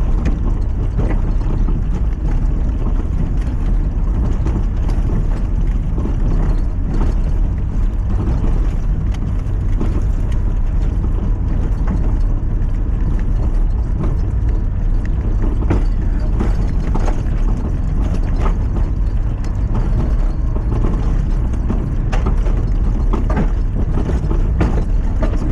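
Lifted Mazda MX-5 driving over a rough, unsurfaced trial track: a steady engine and road drone with frequent knocks and rattles as the car goes over bumps.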